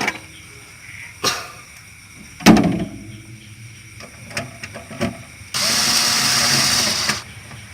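A power drill driving a screw back in, running steadily for about a second and a half near the end. Before it come several knocks and clicks from handling the tools and fridge parts, with one sharp knock about two and a half seconds in.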